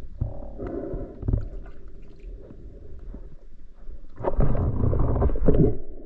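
Muffled water gurgling and sloshing close to the microphone, with a louder surge of splashing for about a second and a half near the end.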